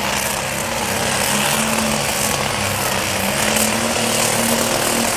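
Pulling tractor's engine running hard at high revs under full load, dragging the weight sled down the track, a steady loud drone.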